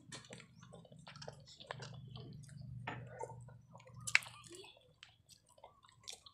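Close-up chewing and wet mouth sounds of people eating balut (boiled fertilised duck eggs), with small crackling clicks of eggshell being peeled and a sharp click about four seconds in. A low steady hum runs under the first four seconds or so.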